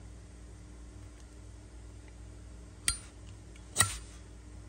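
Two sharp metallic clicks from a Zippo lighter's metal case being handled, about a second apart, the second louder with a short ring.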